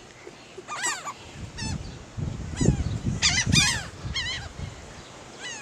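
Seagulls calling: a flock giving repeated short cries that slide down in pitch, several in quick succession and bunched together a little past halfway.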